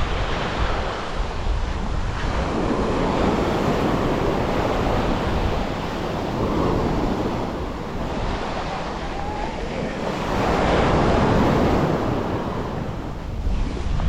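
Sea waves breaking and washing up the shore, swelling about every four seconds, with wind buffeting the microphone in a steady low rumble.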